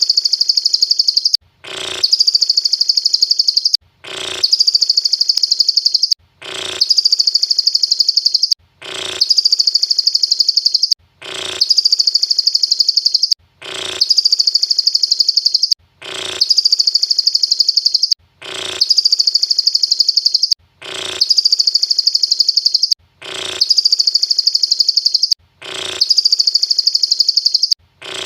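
Song of the cililin bird, a fast high-pitched trill about a second and a half long, each time opening with a short sharp note. It repeats identically about every two and a half seconds, a looped recording played as 'mastering' for lovebirds to copy.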